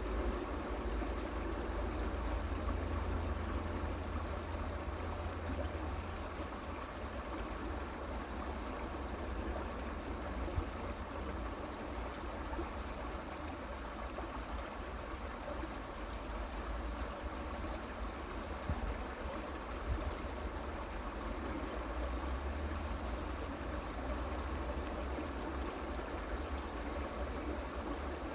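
A stream flowing over stones in a steady rush of running water, with a low rumble underneath and a few faint clicks.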